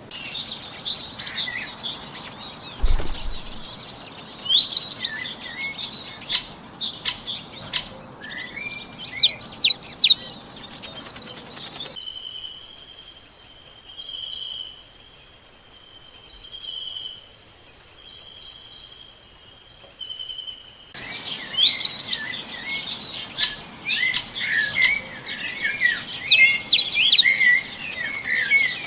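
Songbirds chirping and twittering in quick, overlapping calls. For about nine seconds in the middle, the chirps give way to a steady high-pitched buzz with short lower pulses under it, and then the chirping returns.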